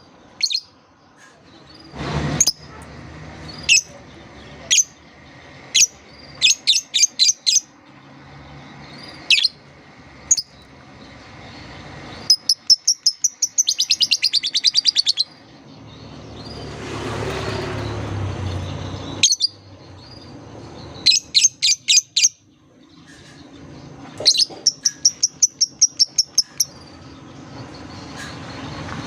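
Lovebird calling: single sharp, high chirps and several runs of fast, chattering repeated notes. A rushing noise swells up and fades about two-thirds of the way through.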